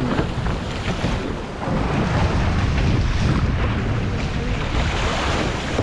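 Wind buffeting the microphone and water rushing along the hull of an E Scow sailboat under way, a steady loud noise that grows a little louder about two seconds in.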